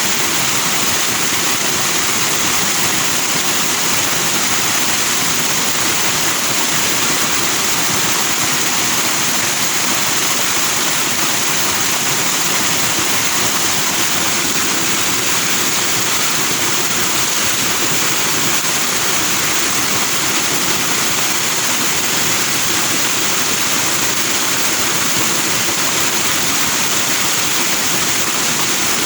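Forest stream flowing fast over rocks with white foam: a steady, loud rush of water that doesn't change.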